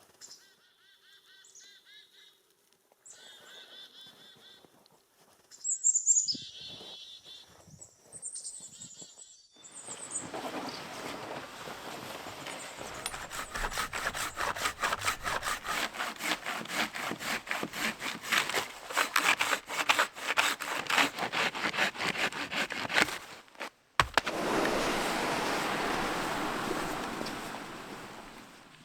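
A bird gives repeated nasal, honk-like calls, then a few high, bright calls. From about ten seconds in, a hand saw cuts firewood in a long run of quick, rhythmic rasping strokes. The sawing stops briefly near the end, starts again, and fades.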